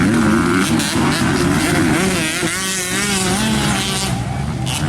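Several motocross bikes' engines revving hard, their pitch rising and falling as the riders work the throttle and shift through the race.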